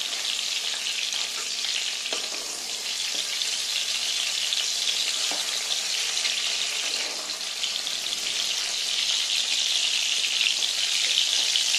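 Eggplant pieces frying in hot oil in a kadhai: a steady sizzle, rising a little near the end.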